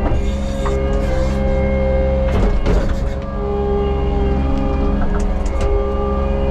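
Bobcat T77 compact track loader running with a deep, steady engine rumble and a held hydraulic whine that changes tone as the controls are worked. There are a few short metallic knocks a little over two seconds in.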